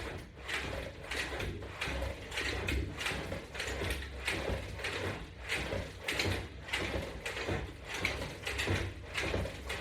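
Resistance-band exercise hardware rattling and creaking in a steady rhythm, about two strokes a second, as repetitions are worked.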